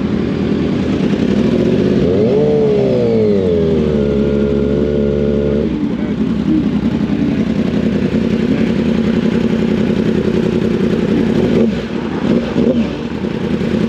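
Several sportbike engines running. One revs up and back down about two seconds in, holds a steady higher note, then drops off abruptly about six seconds in.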